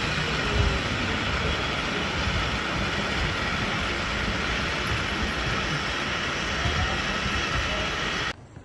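Steady rushing outdoor noise that cuts off abruptly near the end.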